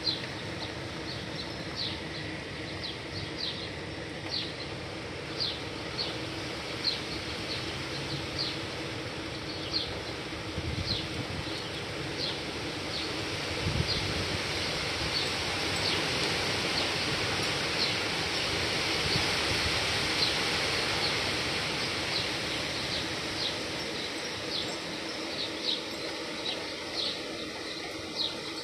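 Steady rain of a rainstorm, growing heavier toward the middle and easing again near the end, with short high chirps repeating about once a second over it.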